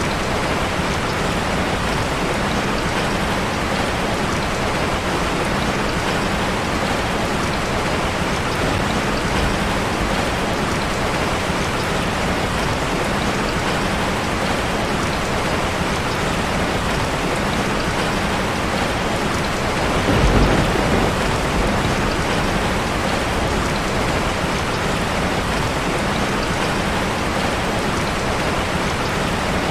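Steady, even rain falling on a metal roof, with a brief low rumble about two-thirds of the way through.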